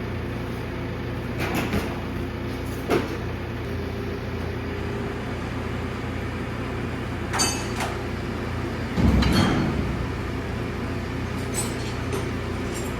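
An engine running steadily with a low hum, with scattered metallic clanks and knocks on top; the heaviest thump comes about nine seconds in and smaller ones about a second and a half, three, seven and a half, and eleven and a half seconds in.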